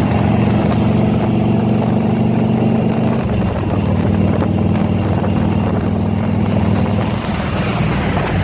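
Harley-Davidson V-twin motorcycle engine running steadily while riding. Its pitch drops slightly about three seconds in.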